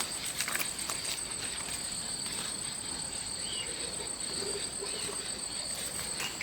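Insects chirring steadily at two high pitches, with a few faint clicks and rustles.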